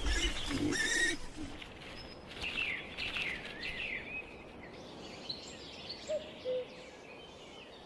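Birds calling in a wetland soundscape: repeated short chirps that sweep downward, over a faint outdoor background. A louder low sound in the first second, and a few faint low notes near the end.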